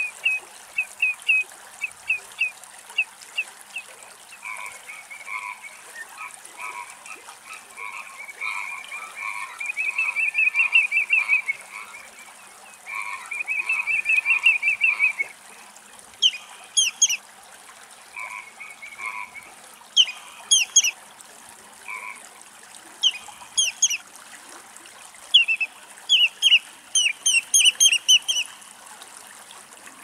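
Wetland bird calls: a run of short, sharp repeated notes, then a long, fast pulsing rattle-like series, then clusters of quick, sharp falling chirps.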